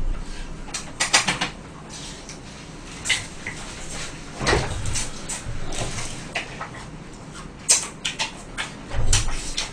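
Close-miked eating of fried chicken: irregular chewing and crunching with scattered small clicks and taps.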